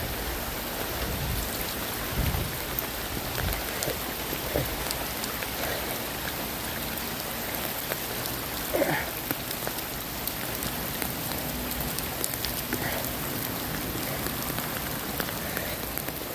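Steady rain falling, an even hiss throughout. A few low thumps come in the first few seconds, and a brief pitched sound about nine seconds in.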